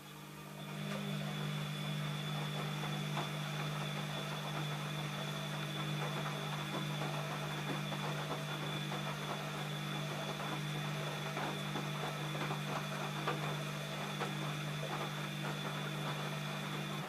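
ELIN A 100 E washing machine running: its motor comes up to speed over about a second, then runs steadily with a low hum, a thin high whine and a dense crackling churn, and cuts off abruptly near the end.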